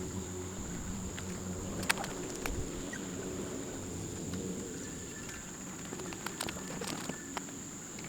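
Scattered light clicks of hand tools being handled, over a steady high-pitched insect drone and a low hum.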